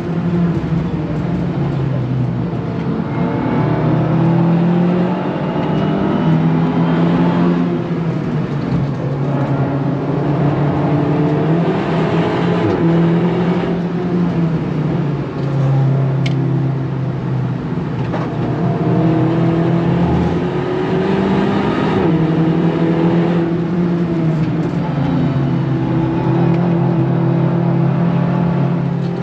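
Hot hatchback's engine heard from inside the cabin on a fast lap, pulling up through the revs and stepping down at gear changes and lifts several times, over steady tyre and wind noise.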